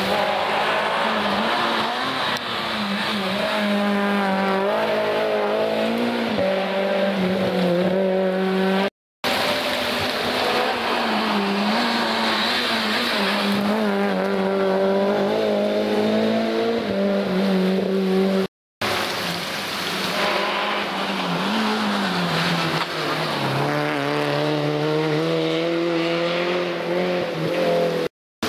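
Rally cars driven hard on a stage, engines revving up and dropping back through the gear changes, in three separate passes split by two abrupt cuts.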